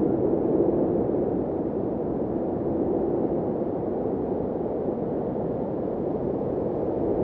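Blizzard wind blowing steadily: a low, even rushing noise with no gusts or breaks.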